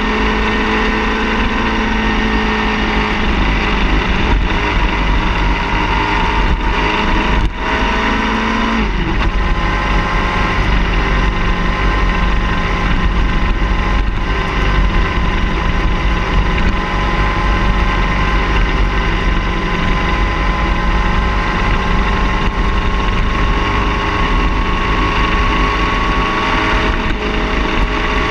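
Car engine running steadily, its pitch shifting down about nine seconds in and then slowly rising.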